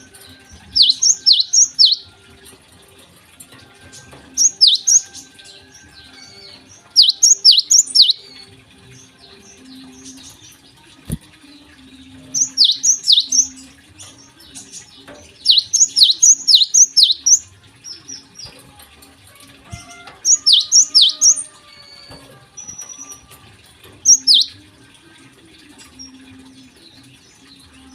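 Java sparrow (gelatik) singing: loud bursts of quick, high chirps that slide down in pitch, a burst every few seconds. The bird is in full, active song.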